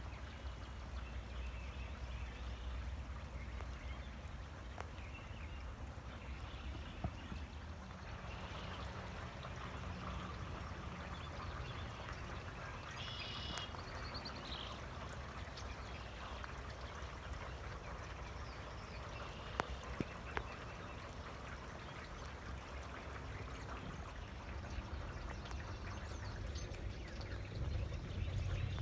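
Steady rain falling in a dense, even patter, with a few single louder drops or taps.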